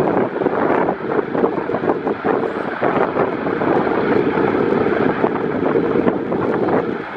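Strong wind buffeting the microphone, over the steady rumble of a Douglas DC-3's radial engines running. The level dips briefly near the end.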